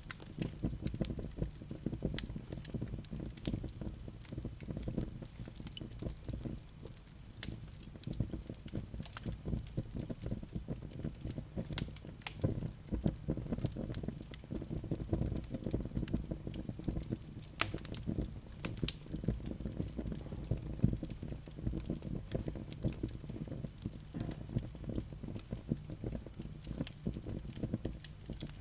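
Wood burning in a fireplace: a steady low rumble of flames with frequent sharp crackles and pops, a few louder snaps scattered throughout.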